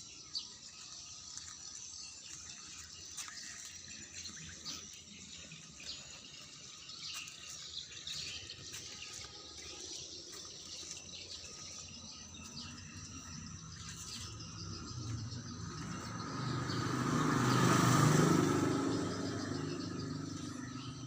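Outdoor ambience with faint scattered ticks and chirps. In the last third a heavy vehicle passes by, its engine and tyres growing louder, peaking, then fading away.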